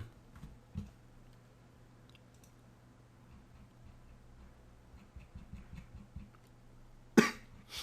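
Faint, scattered clicks of typing on a computer keyboard in a quiet room, with one louder sharp sound about seven seconds in.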